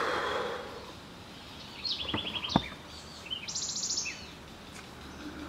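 Birds calling outdoors: two short, rapid, buzzy trills with a few chirps around them, over a soft outdoor hiss, and one sharp click about two and a half seconds in.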